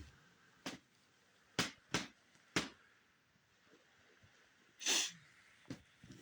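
Quiet, with a few short sharp clicks or crunches spread through. About five seconds in there is one short, sneeze-like snort.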